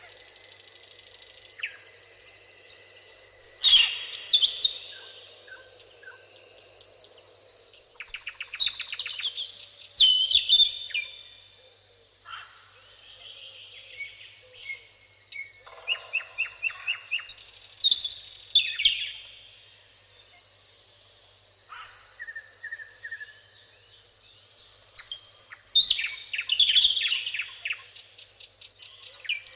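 Several songbirds singing and calling together: quick chirps, rapid trills and short whistles. Loud bursts of song come every several seconds, over a steady high-pitched whine.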